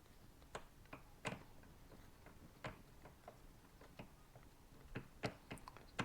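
Faint, irregularly spaced light clicks and knocks, about a dozen in six seconds, from metal motorcycle fork parts being handled and set down during a fork teardown.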